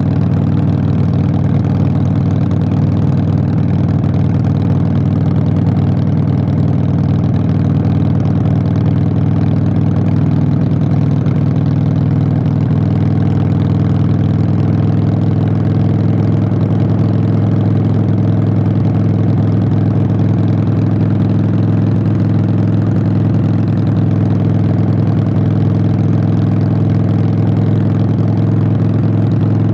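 Harley-Davidson Sportster 883's V-twin running steadily and loud through Vance & Hines Short Shots exhaust pipes.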